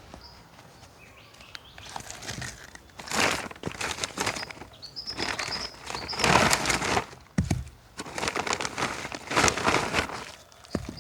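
Irregular bursts of rustling and crinkling, with a few faint, high bird chirps near the start and about five seconds in.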